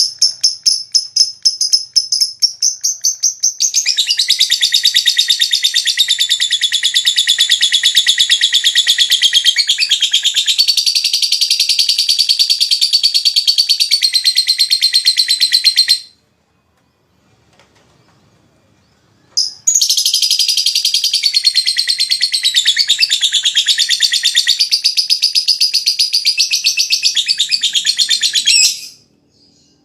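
Lovebird ngekek: a long, fast, rattling chatter. It opens with a run of separate sharp chirps, breaks into a continuous rapid chatter for about twelve seconds, stops for about three seconds, then chatters again for about nine seconds.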